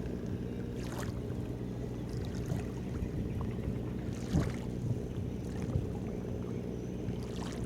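Steady low engine drone from a ship. A few short bursts of noise break through it, the loudest about four seconds in.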